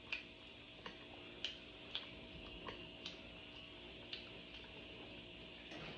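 Close-up eating sounds of chewing: irregular wet mouth clicks and smacks, roughly one a second.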